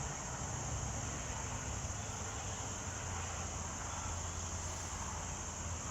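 Steady outdoor ambience: a continuous high-pitched insect drone over a low, even rumble, with no distinct events.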